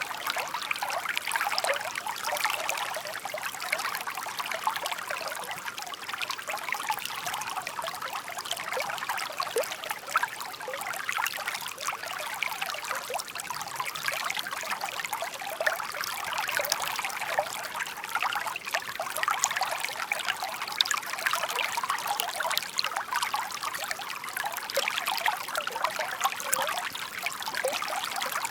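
Shallow stream babbling and trickling over stones, a steady, light splashing without breaks.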